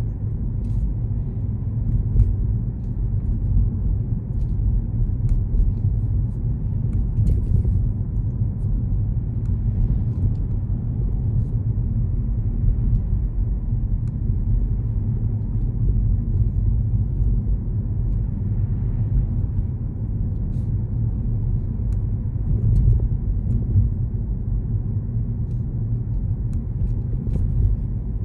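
Steady low rumble of a car being driven, with road and engine noise and a few faint small clicks.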